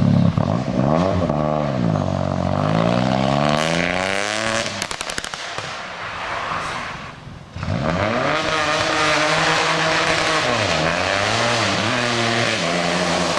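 Rally cars at full throttle on a stage: the engine pitch climbs and drops sharply with each gear change as one car passes and fades, with a quick run of cracks about five seconds in. Then, about seven and a half seconds in, a second car's engine comes in suddenly and winds up through its gears.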